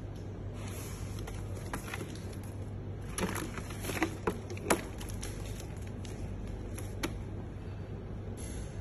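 Ultrasonic sewing machine running with a steady low hum, and a few sharp clicks and taps from the machine's moving parts and the material being fed through.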